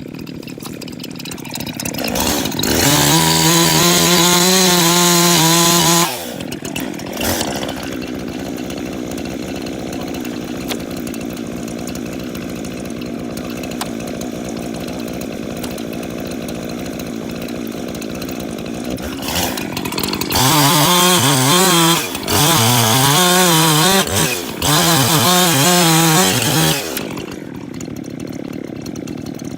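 Two-stroke chainsaw idling, revved to full throttle for a few seconds near the start, then run hard again in three bursts in the second half, its pitch wavering as it cuts jarrah firewood.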